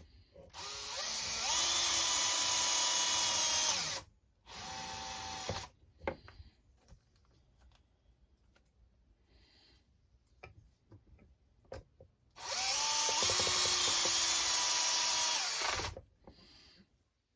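Power drill driving small screws into an RC truck chassis: two runs of about three seconds each, the motor whine rising as it spins up and then holding steady, each followed by a short burst, with faint clicks of handling in between.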